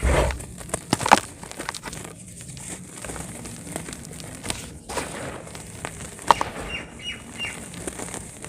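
Dry cement chunks crumbled by hand: irregular crunching and crackling, with a loud crunch at the start and scattered sharp cracks after it.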